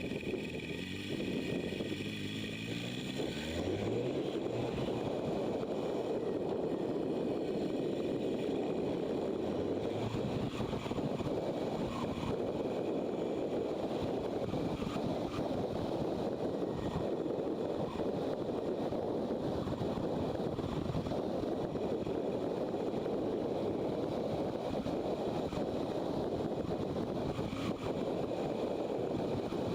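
Motorcycle engine running under way with a steady rush of wind noise over the microphone. The engine note climbs during the first few seconds as the bike accelerates.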